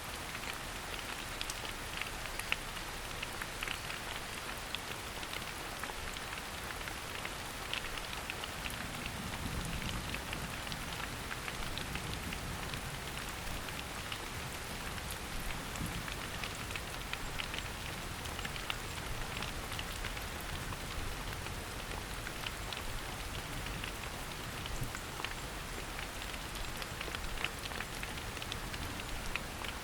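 Steady rain falling in a forest, a dense patter of many separate drops ticking. A faint low rumble joins about nine seconds in.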